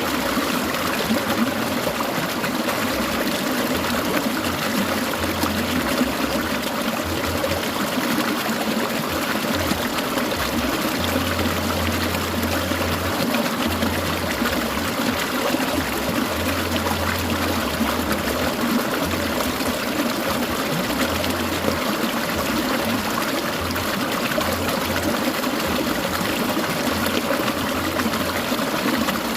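Clear mountain stream trickling and babbling over rocks, a steady, unbroken water sound.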